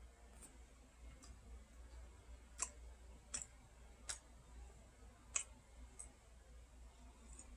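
A handful of faint, sharp clicks at irregular intervals over a low steady hum, typical of small mouth or handling noises while eating a chocolate bar.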